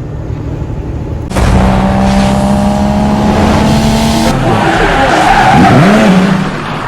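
A car engine running hard at high revs, then pitch swoops up and down like revving with tyres squealing, starting suddenly about a second in and loud throughout.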